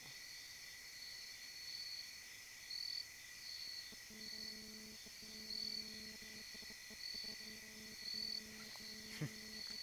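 Night insects chirping in regular pulses about once a second over a steady high drone. From about four seconds in a low steady hum joins, and a single click comes near the end.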